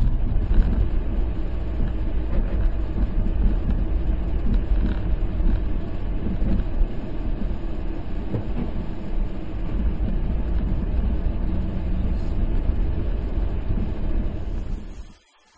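Steady vehicle rumble of engine and road noise, heavy in the low end, cutting off abruptly near the end.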